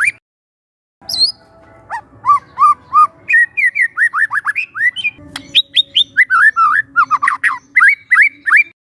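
White-rumped shama (murai batu) singing loud, quick runs of short whistled notes that sweep up and down in pitch, phrase after phrase. The song stops dead for under a second right at the start, and cuts off again near the end.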